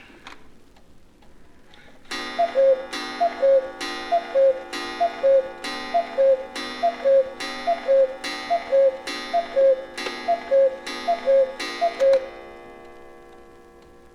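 Cuckoo clock calling the hour: about a dozen two-note falling cuckoo calls, evenly spaced a little under a second apart, each with a ringing chime strike. The ringing fades away after the last call.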